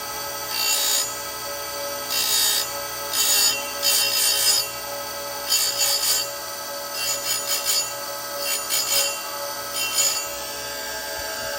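Oregon 410-120 chain grinder with a CBN wheel running steadily, its wheel brought onto a saw-chain cutter in about eight short grinding swipes, each under a second. The swipes are grinding back a cutter whose working corner was curled back by hitting dirt.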